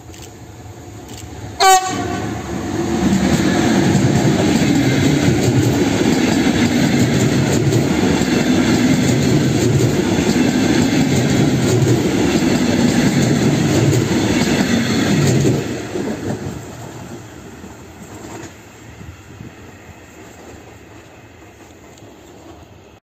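Electric locomotive-hauled passenger train with double-deck coaches gives one short horn blast about two seconds in. It then passes close at speed, with loud steady wheel and rail noise that fades away over the last several seconds.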